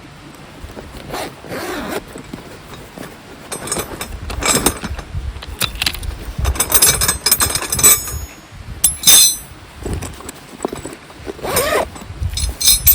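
Irregular handling sounds: rustling, scraping and light clicks of gear being moved about, with a short zip-like scrape or squeak near the end, over the steady rush of a small stream.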